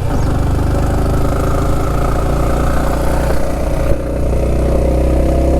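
Motor vehicle engine running steadily at an even pitch while on the move.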